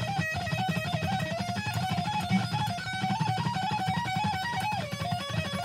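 Electric guitar playing a fast, alternate-picked lead phrase high on the neck: quick single notes flicking back and forth between a few close pitches and stepping down near the end.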